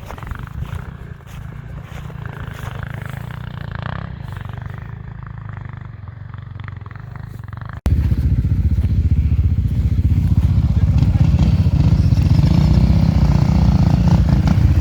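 Off-road enduro motorcycle engines running. About eight seconds in, the sound cuts suddenly to a much louder, closer engine that runs steadily and rises a little in pitch towards the end.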